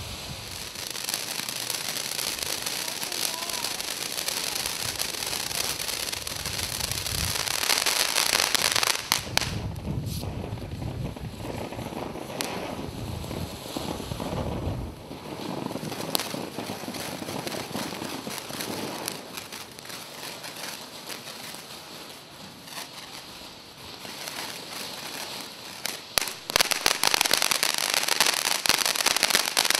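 Consumer firework fountain burning: a continuous hissing spray of sparks with crackles and scattered pops. It dips quieter about two-thirds of the way through, then a cluster of sharp pops near the end brings it back louder.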